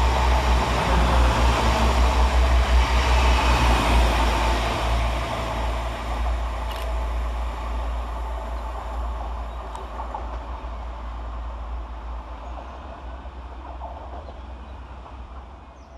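Two coupled Class 185 diesel multiple units passing through the station without stopping. Their diesel engines give a steady low drone with wheel and rail noise, loudest at first and fading steadily as the train moves away.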